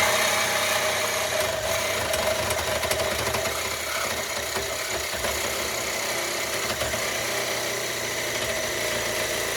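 Power saw running steadily as it cuts through the rusty exhaust pipe, with a constant whine over a harsh metal-cutting hiss.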